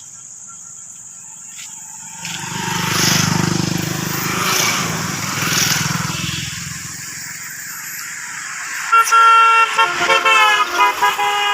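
A vehicle goes by with a low rumble that swells and fades. Near the end a vehicle horn sounds in a rapid run of stepping tones.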